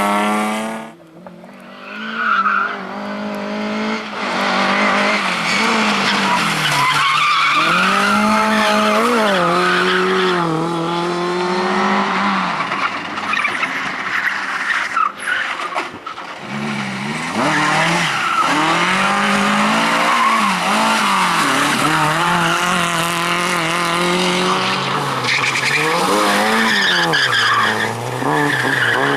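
Rally cars racing flat out: engines revving up and dropping back again and again through gear changes and throttle lifts, with tyres squealing and skidding on the asphalt.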